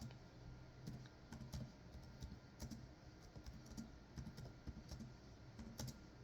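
Faint typing on a computer keyboard: irregular key clicks, a few each second, as a message is typed out.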